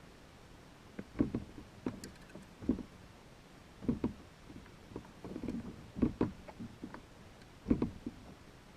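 Irregular dull knocks and thumps against a kayak's hull, about one a second with a few coming in quick pairs, over a faint steady hiss.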